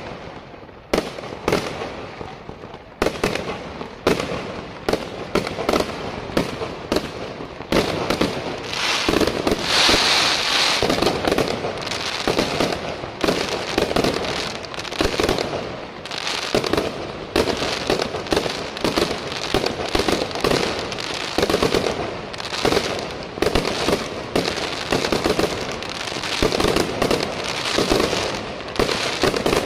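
Mascletà fireworks: sharp firecracker bangs and aerial shell bursts with crackling, a few scattered reports at first, building from about eight seconds in to a dense, near-continuous barrage.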